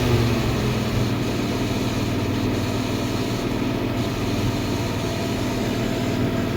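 1978 Chevy C10 pickup's engine idling steadily, just revived after years of sitting.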